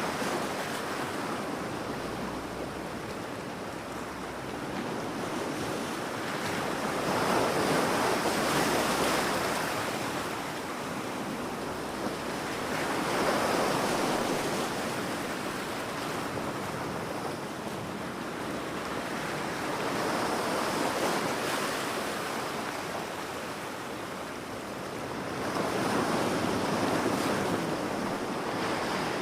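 Ocean waves breaking on a beach, a continuous surf hiss that swells and fades about every six seconds as each wave comes in.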